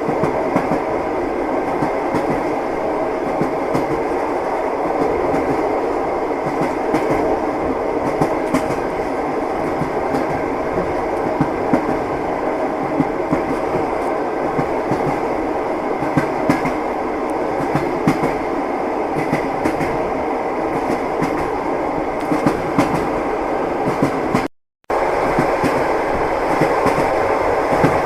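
Train wheels clattering over the rails at running speed: a steady rumble broken by frequent sharp clicks and knocks. The sound cuts out completely for about half a second near the end, then resumes.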